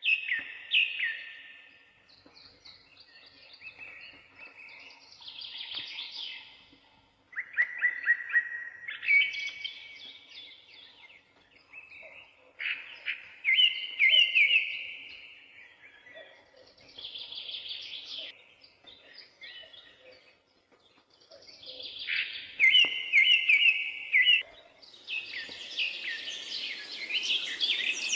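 Birds singing and chirping in phrases of rapid, high trilled notes, one after another with short pauses. A steady hiss of background noise builds up near the end.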